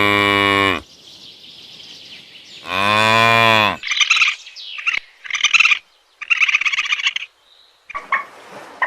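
A cow mooing: one moo ends just under a second in and a second moo follows about three seconds in. Then a bird calls in several short, high chirping bursts.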